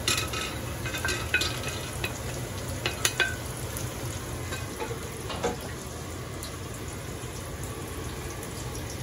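Garlic and sliced onions sautéing in oil in a large stainless steel pot, sizzling steadily. In the first three seconds a wooden spoon scrapes and taps against the plate and pot a few times.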